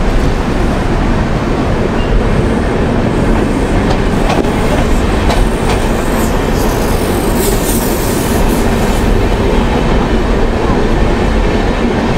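Double-decker express train running at speed, heard from the open coach doorway: a steady loud rumble of wheels on the rails, with scattered clicks of rail joints and points.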